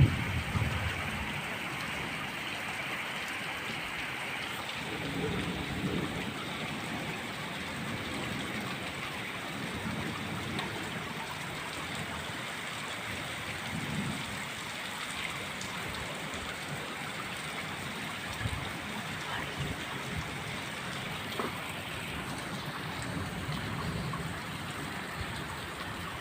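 Heavy rain falling, a steady even hiss of drops on surfaces.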